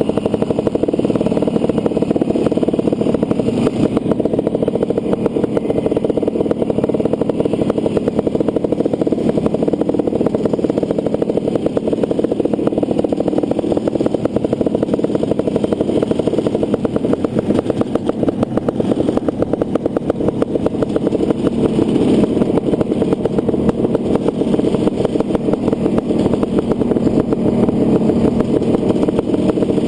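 Honda CR500's single-cylinder two-stroke engine running continuously under race load, with fast, dense firing pulses.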